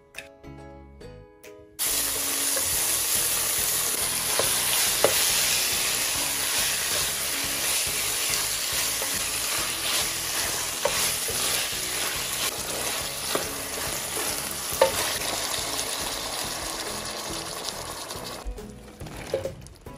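Chicken thighs and red curry paste frying in hot oil in a pan, a loud steady sizzle that starts abruptly about two seconds in, with a few knocks from a silicone spoon stirring. The sizzle dies down near the end as coconut milk goes in.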